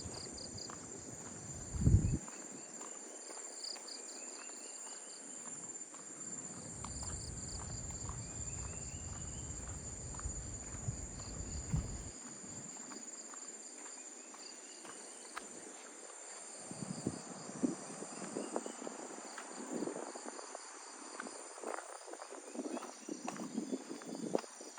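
Tropical insects shrilling steadily at dusk, with high pulsed trills and short rising chirps repeating every few seconds. Footsteps and small knocks sound in the second half, a low rumble runs through the middle, and one thump comes about two seconds in.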